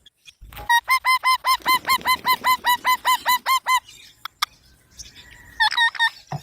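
Baby green parrot calling: a rapid run of about twenty repeated short calls, roughly six a second, lasting about three seconds, then after a short pause a quick burst of three or four more near the end.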